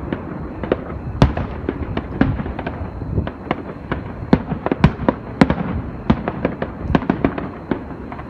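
Fireworks exploding in a rapid, irregular string of bangs and crackles, several a second over a continuous rumble of distant bursts, typical of a finale barrage.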